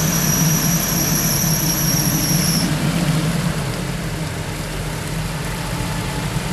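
Off-road SUV engine running steadily at low revs, with a thin high-pitched squeal over it that stops about two and a half seconds in.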